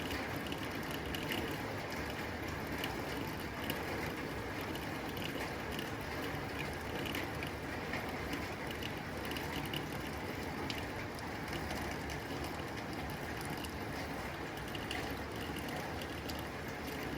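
Rain falling on a tin roof: a steady hiss with many scattered sharp ticks of drops striking the metal.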